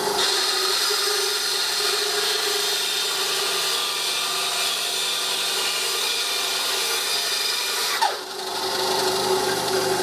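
Electric power tool running steadily on wood, its motor whine holding one pitch; it slows briefly and picks back up about eight seconds in.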